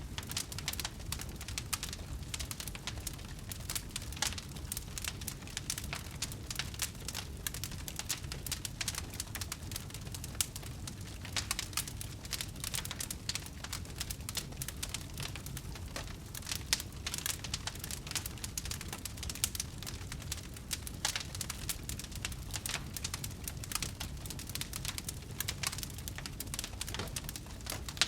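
Wood fire burning, with dense, irregular crackles and pops over a low steady rumble of flames.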